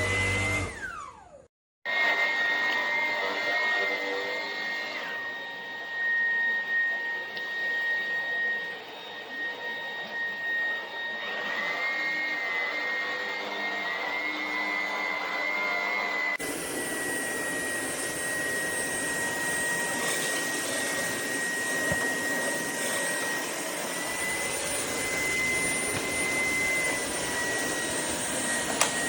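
Shark cordless stick vacuum running with a steady high motor whine and rushing air, its pitch stepping slightly up and down now and then. The sound drops out briefly near the start and changes abruptly in tone about halfway through.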